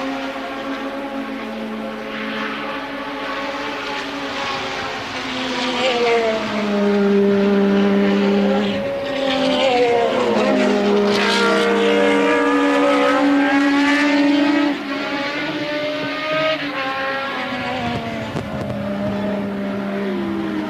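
1983 Formula One race cars' engines at racing speed, several at once, their pitch climbing and dropping through gear changes as cars pass. The sound swells from about six seconds in, one engine sweeps down in pitch around ten seconds, and it eases back after about fifteen seconds.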